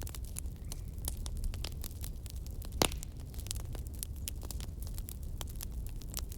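Wood campfire burning, logs crackling with frequent small pops and one louder snap a little before the middle, over a low steady rumble of the flames.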